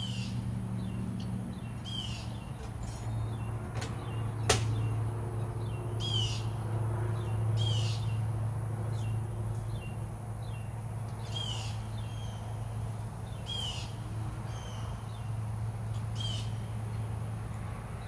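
A bird calling over and over, a short downward-sliding note every one to two seconds, over a steady low hum. A single sharp click about four and a half seconds in.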